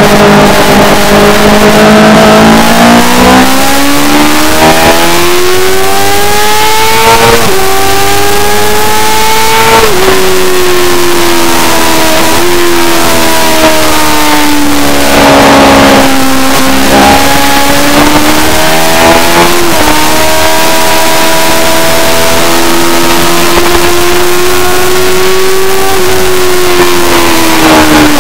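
A racing superbike engine under hard acceleration, its pitch climbing through the gears with sharp drops at upshifts about 7, 10 and 20 seconds in. It eases down as the bike slows around the middle and near the end, with a constant rushing hiss over it.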